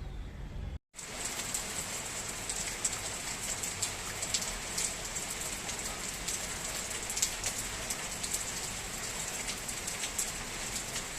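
Steady rain falling, with many small drops ticking and pattering. About a second in, a low rumble cuts off abruptly before the rain begins.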